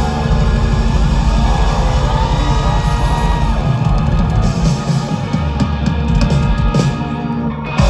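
Rock band playing live with drum kit and electric guitars, ending its song with a final hit near the end.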